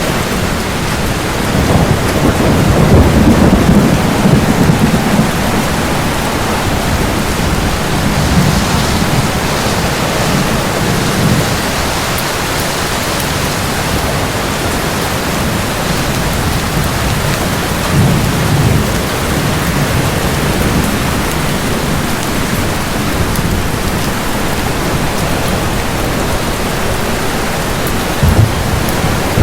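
Steady heavy rain with rolling thunder: a long low rumble a few seconds in, further rumbles in the middle, and a short sharp thunderclap near the end.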